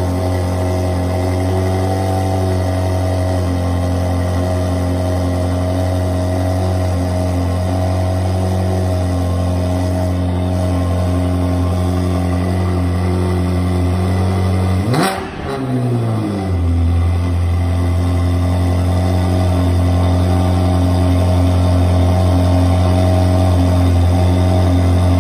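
Ferrari 360's 3.6-litre V8 running at a steady idle on its first run after a full engine rebuild. About fifteen seconds in, the engine note briefly jumps and slides back down, then settles into the same steady idle.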